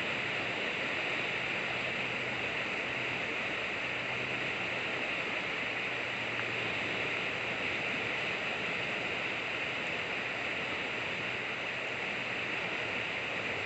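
River current rushing and burbling in a steady, unbroken wash.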